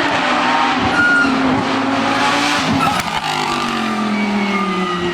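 Hill-climb race car's engine running hard, its pitch falling steadily over the last couple of seconds as the car goes by.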